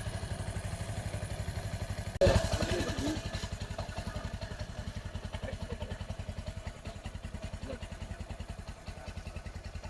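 Bajaj Discover 135's single-cylinder four-stroke engine idling with an even, steady beat, freshly rebuilt with a new piston and rings, new valves with recut seats and a new timing chain. A brief louder sound breaks in about two seconds in.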